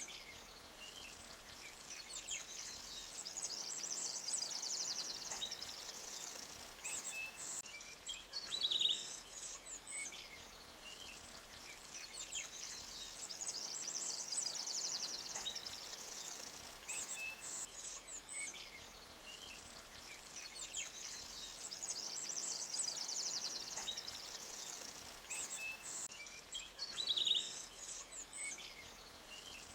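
Forest birds chirping and trilling high over a soft, steady hiss of flowing stream water. The same bursts of calls come round about every nine seconds.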